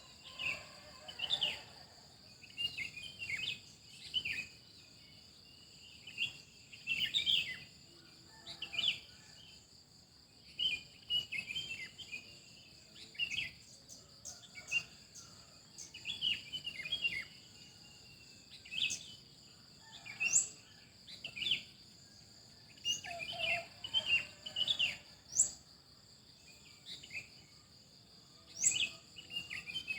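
Wild songbirds chirping in many short, quick phrases, with a few higher rising whistles, over a steady high-pitched insect buzz.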